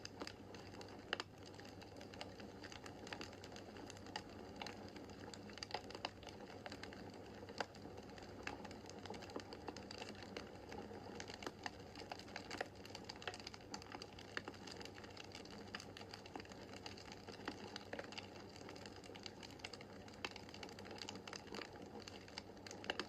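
Wood fire in a fireplace crackling: irregular sharp pops and snaps over a soft, steady rush of burning logs.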